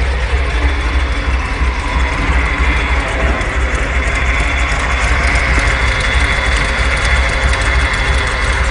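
Lifted monster truck's 355 small-block V8, with a 285 Comp cam and a 750 Demon carburettor, idling steadily.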